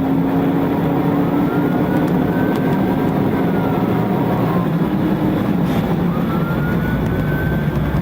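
Police siren wailing slowly up and down, faint under loud, steady engine and road noise from a vehicle at speed.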